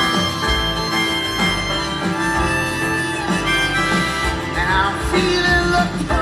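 Live band playing an instrumental break between sung lines, with a steady beat of strummed chords under a sustained lead melody.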